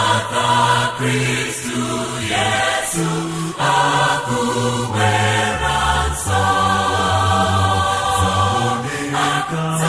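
Choral music: several voices singing held notes together over a low bass line, the chords changing every second or so.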